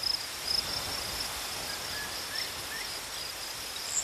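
Nature ambience of steady, high-pitched insect chirping, with a few faint short bird chirps about halfway through.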